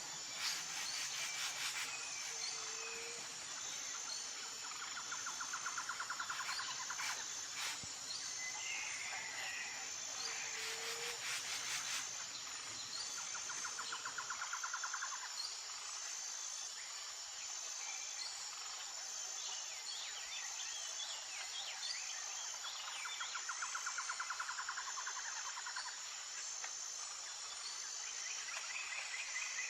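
Outdoor nature ambience: insects chirring in a steady high chorus with an evenly pulsing chirp, while birds give short calls and trills every few seconds.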